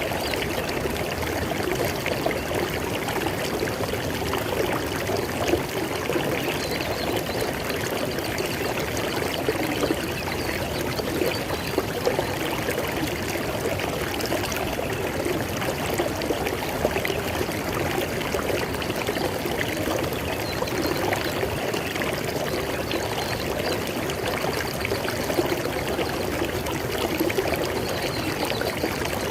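River water flowing steadily, a continuous rushing and splashing with no break.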